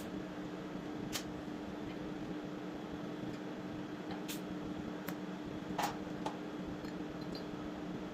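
A steady mechanical hum with about six sharp clicks or taps scattered over it.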